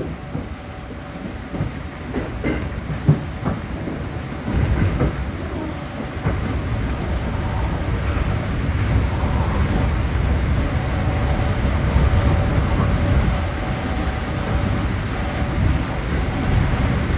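Staten Island Railway train car running along the track, heard from inside the car: a steady rumble with wheel clacks over the rail joints, getting louder about five seconds in. A faint steady whine runs under it in the second half.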